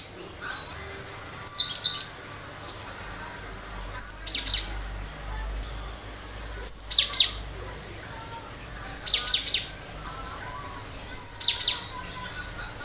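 Cinereous tit (gelatik batu) singing sharp phrases five times, two to three seconds apart: each a short high note followed by a quick run of sharp, piercing strokes.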